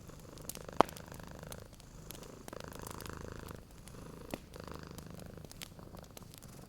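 Domestic cat purring steadily, the purr swelling and fading with each breath, over a wood fire crackling with sharp pops; the loudest pop comes about a second in.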